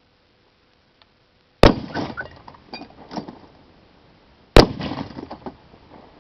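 Two sharp gunshots about three seconds apart, each followed by about a second of clattering and tinkling as the target and debris scatter.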